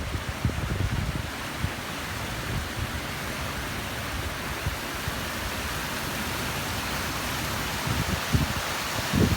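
Waterfall rushing, a steady even hiss of falling water. Wind buffets the microphone with low rumbles about a second in and again near the end.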